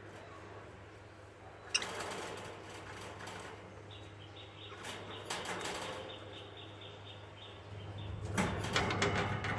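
Budgerigars chirping in a soft high chatter, with scattered rustles and clicks, a sharp tap about two seconds in and a louder flurry of rustling near the end.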